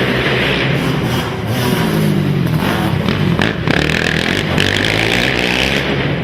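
Racing ATV engines revving and easing off in turn as quads run the track, with the pitch rising and falling. A few sharp knocks come about three and a half seconds in.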